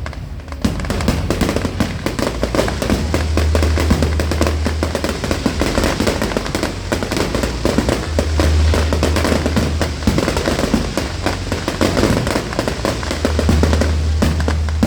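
Aerial fireworks crackling and popping in dense, rapid succession, with a low rumble that swells and fades every few seconds.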